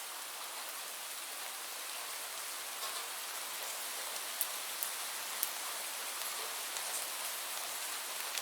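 Steady rainfall with a dense, even hiss, and scattered louder drops ticking sharply, several a little past the middle.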